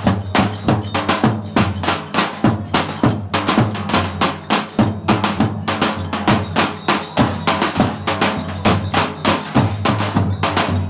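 Turkish folk dance tune (oyun havası) from Zonguldak played by a live ensemble: a brisk, steady beat of sharp clacking percussion over held low notes.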